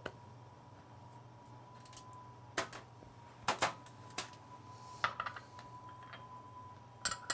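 Scattered light clicks and taps of kitchen utensils and containers being handled and set down, a few separate knocks about a second apart, over a faint steady electrical hum with a thin high tone.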